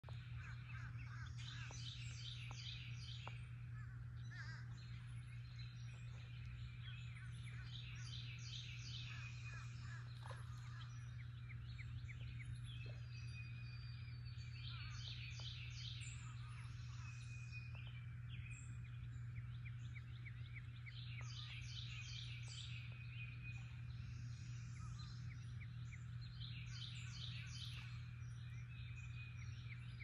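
Birds singing over a steady low hum; one bird repeats a short phrase of quick high notes about every six seconds, with fainter calls between.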